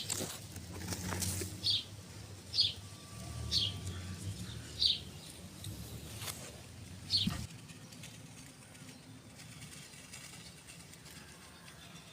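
A small bird calling with short, high, downward-sliding chirps, about six of them spaced roughly a second apart, falling silent about seven seconds in. A low background rumble fades out at about the same time.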